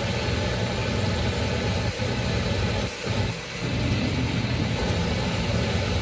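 Brastemp Eggo 1 kg mini washing machine running at the start of its softener-rinse cycle: a steady low motor hum with water noise, briefly dipping a few times.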